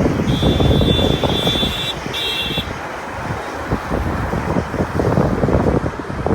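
Loud low rumble with wind buffeting the microphone. A high steady beep sounds twice in the first three seconds, the first beep long and the second short.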